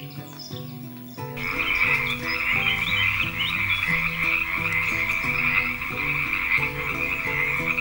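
Frogs croaking in a dense, continuous chorus that starts about a second and a half in, over light background music.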